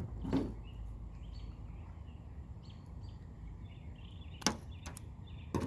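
A steady low rumble with a few sharp clicks or knocks, the loudest about four and a half seconds in and another near the end.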